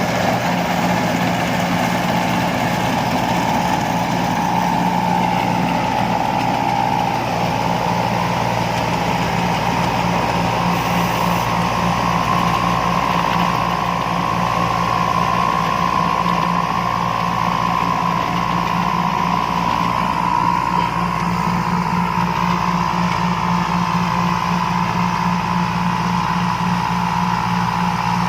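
Combine harvester engine running steadily at constant speed, with a steady high-pitched whine above the engine note.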